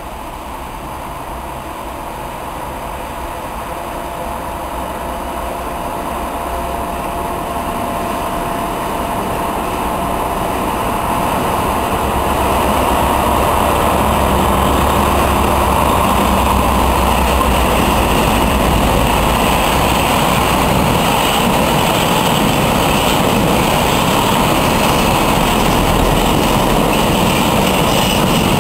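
Freight train hauled by two diesel locomotives approaching and passing: the diesel engines' rumble grows steadily louder, peaks as the locomotives go by about halfway through, then the wagons roll past with a steady rumble of wheels on rail.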